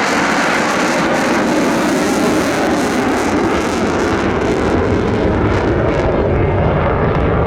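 Fighter jet's engine noise, loud and steady, as the aircraft passes. After about five seconds the hiss fades and a low rumble takes over.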